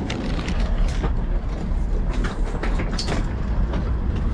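Steady low rumble of a train standing at the platform, with scattered knocks and clicks from suitcases and bags being lifted aboard and handled in the car's vestibule.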